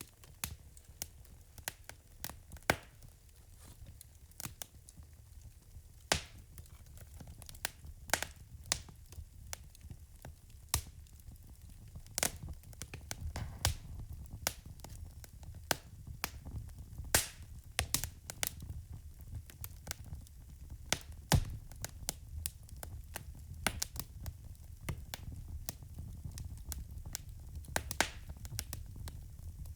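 Wood fire crackling: irregular sharp pops and snaps, a few much louder than the rest, over a steady low rumble of the burning fire.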